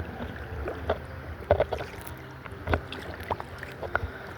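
A kayak on river water: water moving against the boat, with a scatter of irregular knocks and taps against the hull.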